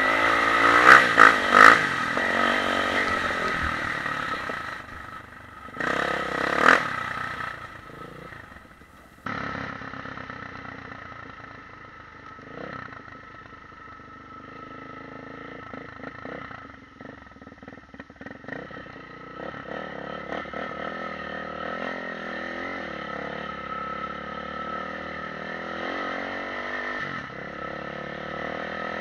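Dirt bike engine running with the revs rising and falling while riding a rough dirt trail, with knocks and clatter from the bike over the ground. About nine seconds in the sound drops and turns duller as the recording switches to a different camera.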